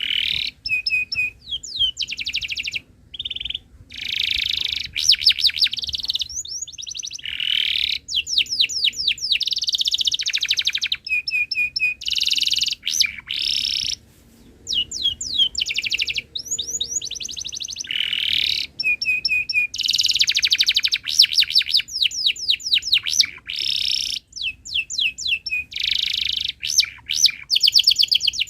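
Domestic canary singing a long song of rapid repeated chirps and trills, phrase after phrase with short breaks between.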